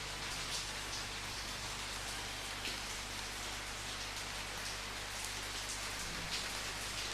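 Steady rain falling, an even hiss with scattered louder drop splashes.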